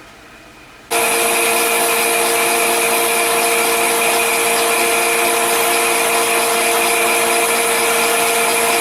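A machine starts abruptly about a second in and keeps running loud and steady: a whir with several constant tones over a high hiss.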